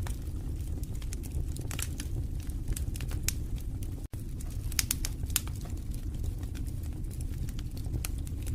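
Wood fire in a fireplace crackling, with frequent sharp irregular pops over a steady low rumble of the flames. The sound cuts out for an instant about four seconds in.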